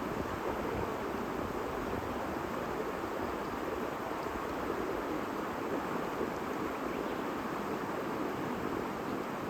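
A babbling stream, its water running steadily over stones.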